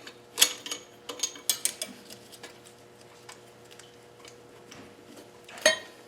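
Metal hand tools clicking and clinking on engine bolts: a quick run of sharp clicks in the first two and a half seconds, a few fainter ones after that, and one loud clink near the end.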